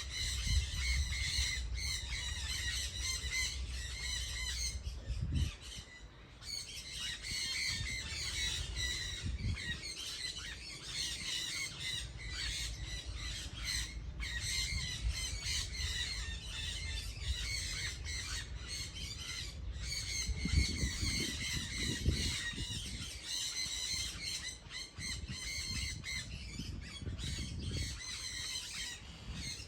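A flock of birds squawking and chattering together in a dense, continuous chorus, easing briefly about five seconds in, with an uneven low rumble underneath.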